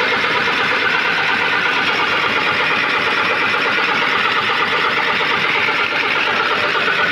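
Mitsubishi Fuso truck's diesel engine being cranked on the starter, turning over steadily in a fast even rhythm without catching. This is a crank-no-start caused by low fuel pump pressure from a damaged fuel pump.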